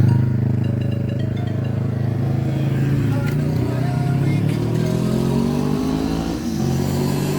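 A car engine pulling under load, its pitch climbing steadily through the middle as it accelerates, with a brief dip near the end.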